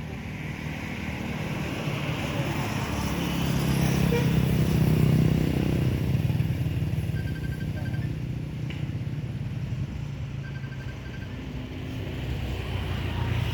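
Motor vehicle engine running steadily, swelling as it comes closest about four to six seconds in, then easing off; twice a short run of faint high pips.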